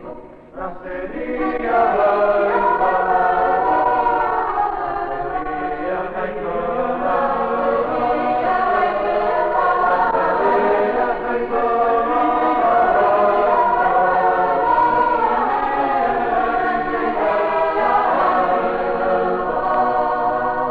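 Choir singing, many voices together in long held lines, building up over the first two seconds and then holding steady.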